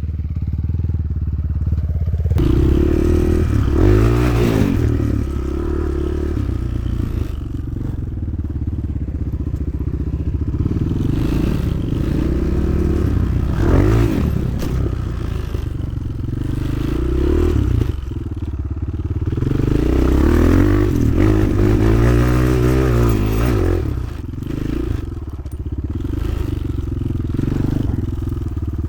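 Motoland XR 300 Lite enduro motorcycle engine being ridden, revving up and easing off again and again, its pitch rising and falling several times.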